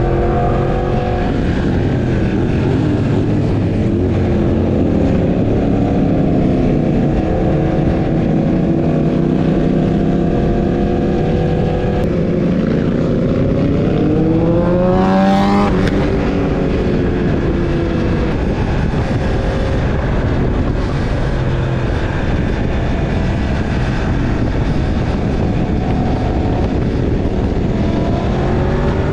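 Sport motorcycle engine running under way, over a steady rushing noise. Around the middle the engine pitch rises steeply as it revs up, then drops back.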